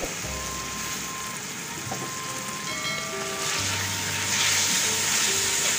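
Soft background music with held notes. From about three and a half seconds in, boiled chickpeas frying in masala sizzle as a spoon stirs them through the pan.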